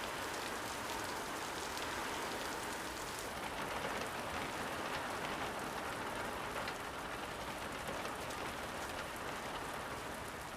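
Steady rain falling, a constant hiss with many small scattered drop hits.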